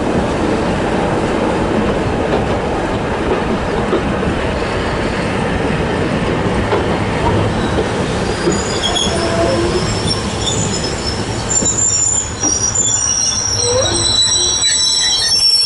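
Passenger coaches running on the rails: a steady rumble of wheels on track, with high-pitched wheel squeal coming in about halfway through and growing more frequent near the end.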